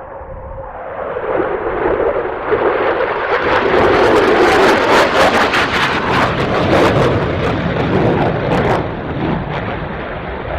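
McDonnell Douglas F-15 Eagle's twin turbofan jet engines on a low-level pass. The roar builds, peaks with a ragged crackle for a few seconds mid-way, then fades as the jet passes and moves away.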